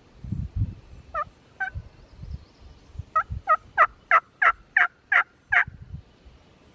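Turkey call sounding hen yelps: two yelps, then a run of eight evenly spaced yelps, each breaking from a high note down to a low one. This is a hen call used to draw a gobbler in.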